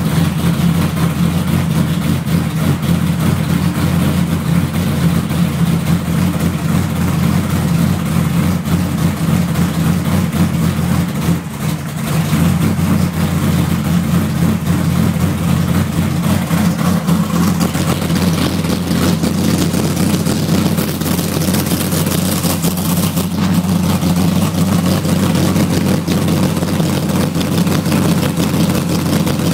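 Reher-Morrison 565 cubic-inch big-block Chevrolet V8 idling through a full dual 4-inch exhaust with Borla mufflers: a loud, steady, deep exhaust note, with a brief dip in level a little before halfway.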